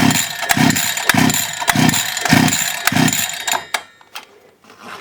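A 42.7 cc two-stroke brush-cutter engine being cranked with its recoil pull-starter: a quick run of rhythmic chuffs a little over half a second apart that stops about three and a half seconds in, followed by a few light clicks. The engine is failing to start.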